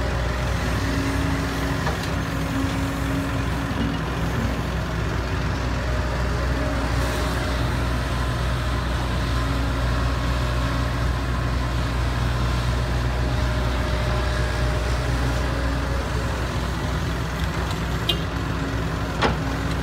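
Heavy diesel engine running steadily at an even, unchanging pitch, with a short click near the end.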